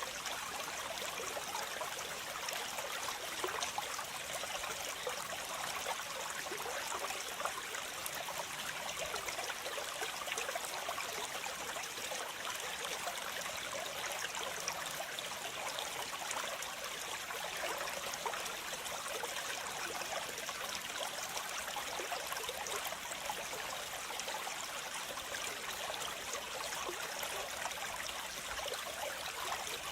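Waterfall: a steady rush of falling water with fine splashing and trickling, light in the deep low end.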